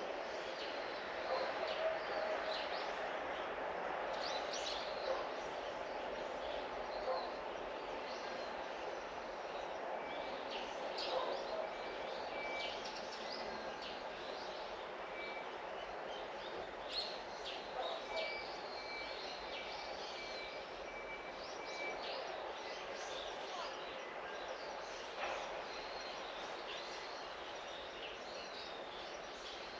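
Birds chirping in short, scattered calls over a steady background hiss of outdoor ambient noise, with a faint thin high tone pulsing on and off in two stretches.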